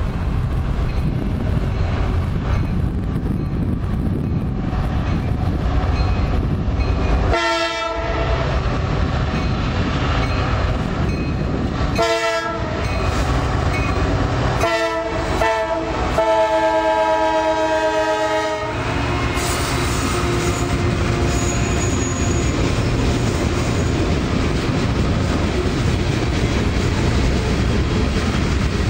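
Horn of a CSX diesel freight locomotive sounding four blasts, the last one the longest, over the steady rumble of the approaching train. After the horn stops, the locomotives and then the boxcars roll past with wheels clicking over the rail joints.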